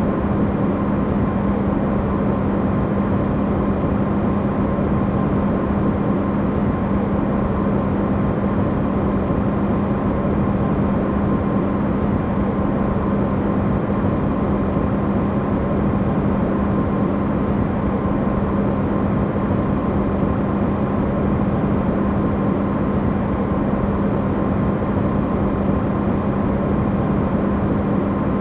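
Electrolux refrigerator running, recorded amplified: a steady low hum over an even rushing noise, with a faint higher tone.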